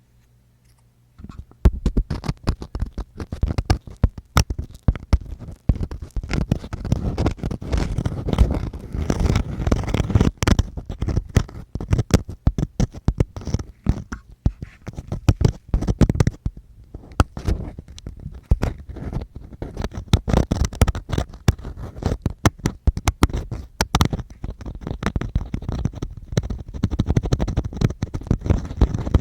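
Ear-cleaning ASMR: an ear-cleaning tool scratching and scraping right against the microphone, a dense run of rubbing noise with many sharp clicks. It starts about a second and a half in, after near silence.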